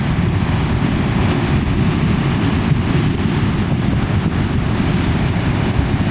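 Strong wind buffeting the microphone in a heavy, steady rumble, over the continuous rush of large breaking ocean waves.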